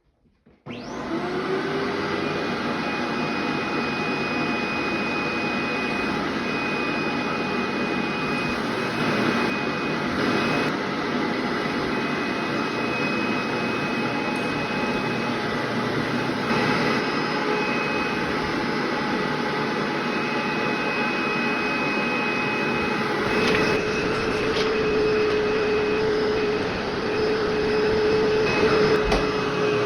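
Vacuum cleaner switched on about a second in, its motor spinning up and then running steadily with a high whine.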